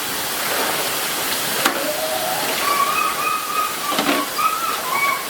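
Steady rain falling, an even hiss of water, with a sharp knock about a second and a half in and another near four seconds. From about two seconds in a faint wavering call rises and falls over the rain.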